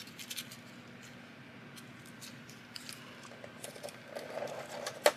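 Paper being folded into accordion pleats for a rosette: soft crinkling and creasing with scattered light clicks and taps, and one sharper click near the end.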